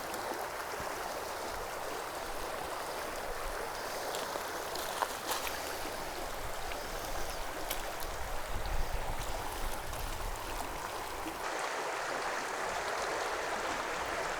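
Clear mountain stream running over rocks in a canyon, a steady rush of water with a few faint ticks.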